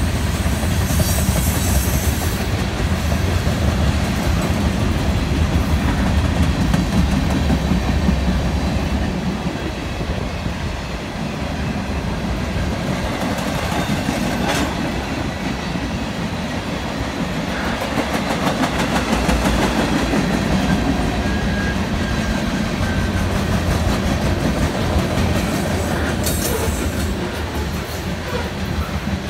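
Freight train cars rolling past: a steady rumble of steel wheels on rail with clickety-clack over the rail joints. There is a sharp clank about halfway through, and a brief high-pitched noise about a second in and again near the end.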